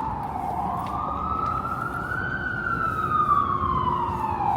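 Emergency vehicle siren in a slow wail. It bottoms out near the start, rises for about two seconds, then falls again near the end, over a steady rumble of city street noise.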